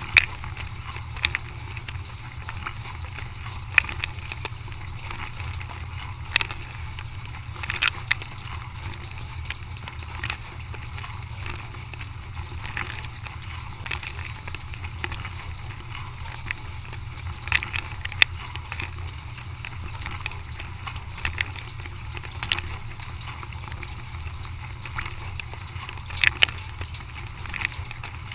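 Dishwasher machine running: a steady low hum under a hiss of spraying water, with sharp clicks every second or two.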